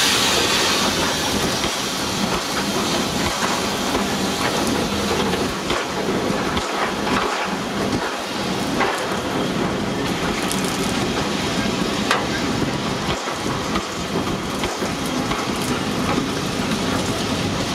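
Passenger coaches of a steam-hauled train rolling past close by: a steady rushing rumble with scattered sharp clicks from the wheels.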